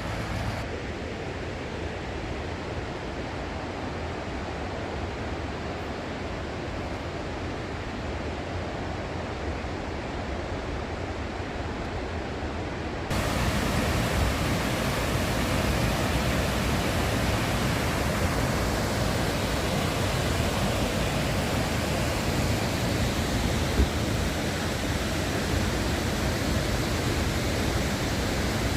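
Waterfall's steady rush of falling water, which steps up louder and brighter about thirteen seconds in.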